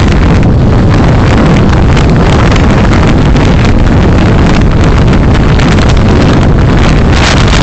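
Steady, loud rumble of road and wind noise from a moving car, picked up by a dashcam's microphone.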